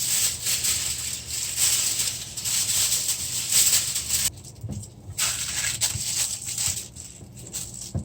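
A lining sheet being crinkled and pressed into a baking dish: a crackling rustle in two long stretches, with a short pause a little past the middle.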